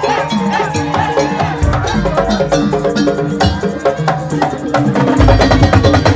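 Madurese tong-tong ensemble playing a fast, busy rhythm of struck wooden slit drums and bell-like metal percussion over pitched melodic notes, with a deep drum coming in about five seconds in.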